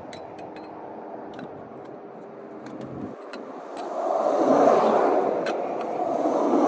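Highway traffic passing close by: a swell of road noise builds about four seconds in, with scattered light clicks throughout.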